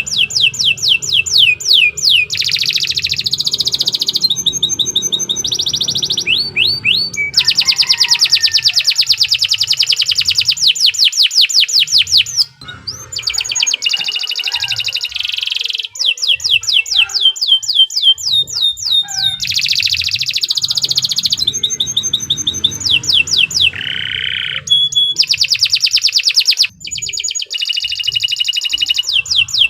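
Domestic canary singing a long, continuous song of rapid trills: each phrase is a fast run of repeated high notes that switches to a new trill every second or two, with a brief break about halfway through.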